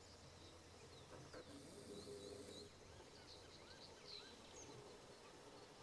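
Faint outdoor ambience with scattered birds chirping briefly over a low steady hum.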